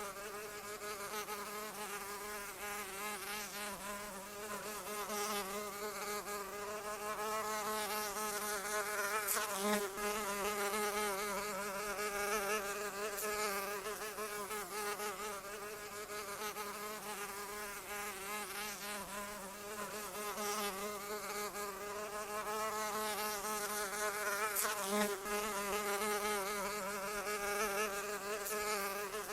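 A flying insect buzzing without a break: a steady, many-toned hum whose pitch wavers constantly. It swells briefly twice, about ten seconds in and again near twenty-five seconds.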